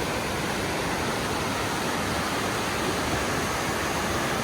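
Steady, loud rushing noise with no distinct events, spread evenly from low to high pitch.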